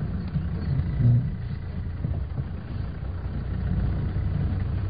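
Land Rover safari vehicle driving, its engine a steady low rumble, with a brief louder thump about a second in.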